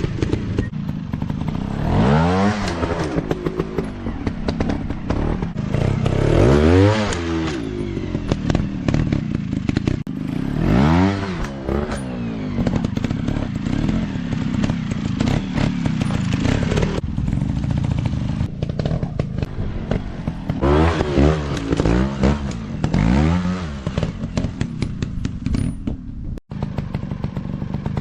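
Off-road dirt bike engines revving up and easing off again and again, with clatter and knocks throughout.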